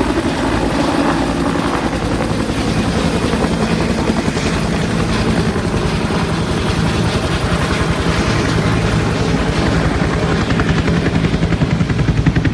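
Bell UH-1 helicopter running, the rapid beat of its main rotor over the steady drone of its turbine, the beat growing stronger near the end.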